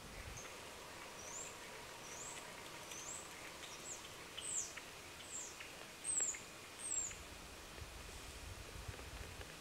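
A small bird calling: about nine thin, very high-pitched slurred notes spaced under a second apart, the last two the loudest, over faint background hiss.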